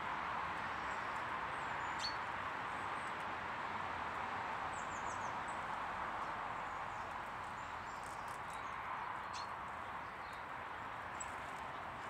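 Small garden birds calling: several faint, high, short chirps that slide downward, over a steady rushing noise, with a few light clicks.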